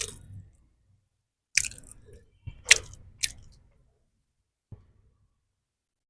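Close-miked chewing and biting on food: a few short, sharp crisp sounds with silent gaps between them.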